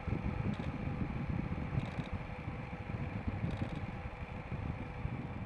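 Motorcycle on the move: the engine running steadily under a choppy rumble of wind buffeting the microphone, with a few faint light clicks.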